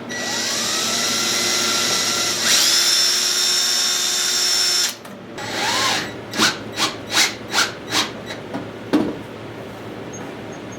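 Electric drill spinning up to speed and then rising to a higher speed about two seconds in, running steadily until it stops about five seconds in. It then revs briefly again and runs in about seven short trigger pulses, two or three a second.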